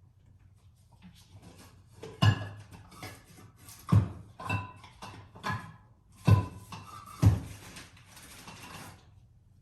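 Hard parts being handled and knocked together during a mass airflow sensor swap: a series of about six sharp clunks, some with a short ringing tone, with shuffling and handling noise between them.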